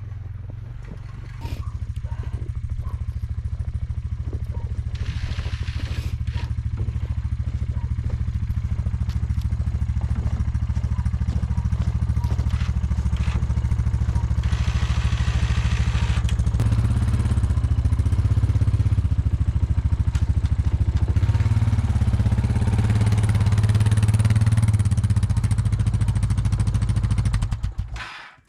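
An engine running steadily with a low, even rumble. It gets louder in a step about a second and a half in, and cuts off suddenly near the end.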